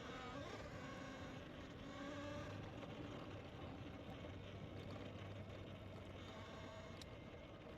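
Faint, steady rumble and hiss of a bicycle being ridden, with faint humming tones that waver in pitch.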